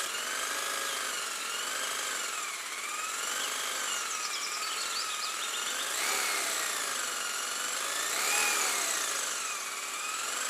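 Small DC motor running with a high whine whose pitch wavers slowly up and down.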